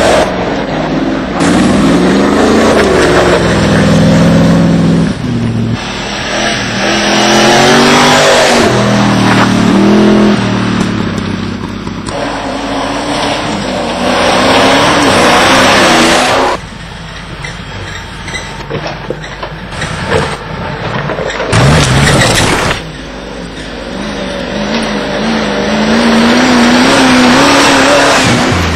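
Land Rover engine revving hard in off-road racing, its pitch climbing and falling again and again as the throttle is worked. There is a short loud burst about two-thirds of the way through, and near the end a steadier, slowly rising note.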